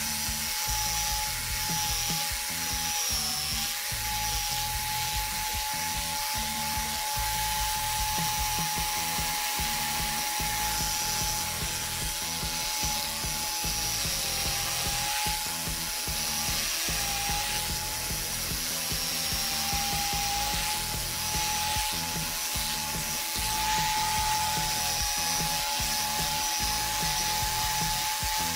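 DIY carpet shearing tool, an electric clipper mounted on a clear plate, running with a steady whine that dips briefly in pitch a few times as it shears the tufted rug pile. Background music plays under it.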